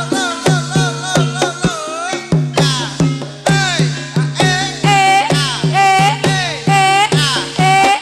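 Banyumasan gending ebeg gamelan music: a dense, steady rhythm of about three to four drum strokes a second, the strokes bending up and down in pitch, over sustained struck tones.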